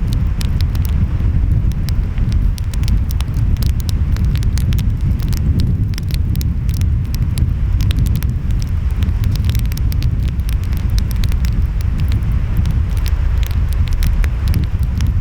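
Wood fire crackling, with many sharp pops and snaps at irregular intervals, over a steady low rumble of waves and wind.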